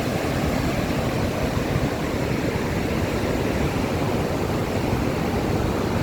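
Steady, loud rush of Victoria Falls' water plunging close by, an even roar with most of its weight in the low end.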